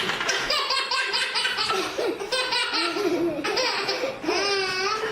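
A baby laughing hard in quick repeated bursts, ending about four seconds in with a long, wavering, high-pitched squeal.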